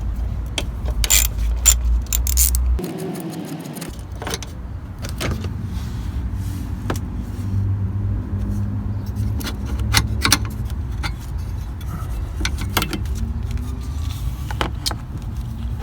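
Irregular metallic clicks and clinks of a small socket wrench and loose parts being handled while the fuel injection relay's mounting bolt is undone, over a steady low rumble.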